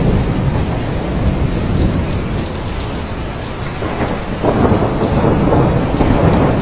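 Heavy rain falling steadily under rolling thunder, with the rumble easing a little midway and building again over the last couple of seconds.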